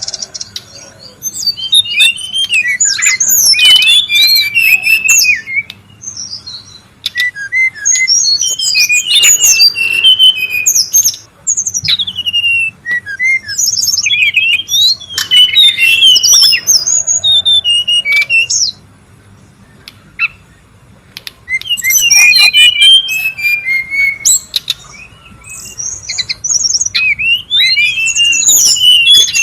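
Brown-chested jungle flycatcher singing: rapid, varied whistled warbling phrases of a few seconds each, broken by a pause of about two seconds about two-thirds of the way through.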